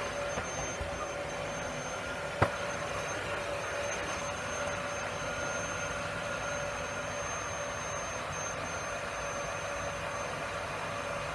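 A steady machine hum with a thin whine over a hiss, unchanging throughout, with a single sharp click about two and a half seconds in.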